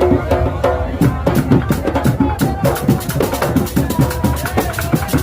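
A drum group playing: scattered strokes about a second in build into a dense, fast, driving beat after about two and a half seconds, with voices mixed in.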